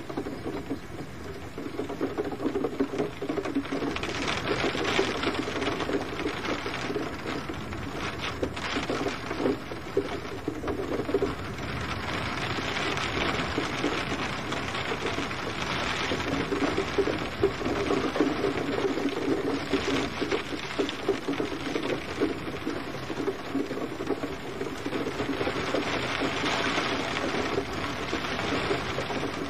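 Steady gentle rain, a dense patter of drops on a surface with a soft hiss that swells and eases every several seconds.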